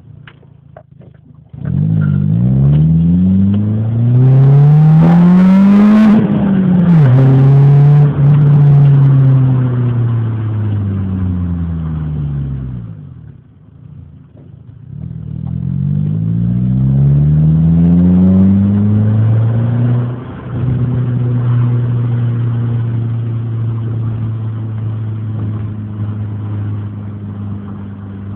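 Renault Clio engine and exhaust under hard acceleration. The note climbs steeply, drops at an upshift about six seconds in, holds, then dies away. It climbs again, drops at a second shift about twenty seconds in, and settles into a steady cruise.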